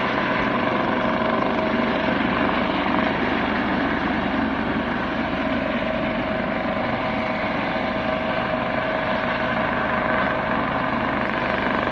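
Rotor aircraft hovering in place: a steady, unbroken engine-and-rotor noise with a constant mid-pitched hum running through it.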